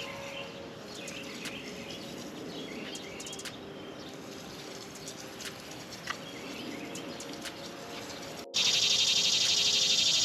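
Wild birds chirping and calling in short, scattered notes. About eight and a half seconds in, the sound cuts abruptly to a much louder, steady, fast-pulsing insect trill.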